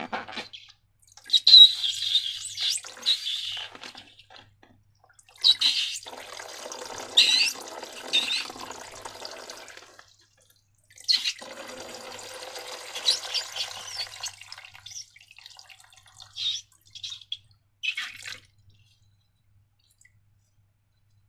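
Wet slime squelching as it is squeezed and worked by hand, in three stretches with short squeaky glides, followed by a few short clicks.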